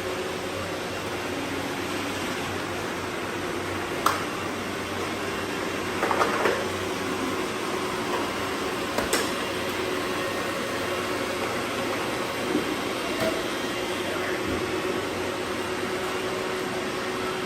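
Robot vacuum running with a steady whirring hiss, broken by a few sharp clicks and knocks.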